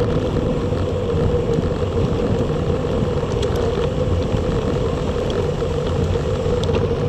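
Steady wind and road noise from a moving recumbent bicycle, picked up by an action camera's microphone, with a constant hum underneath.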